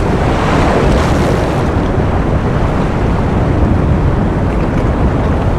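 Ocean surf as a loud, unbroken wash of noise, swelling a little in the first second or so.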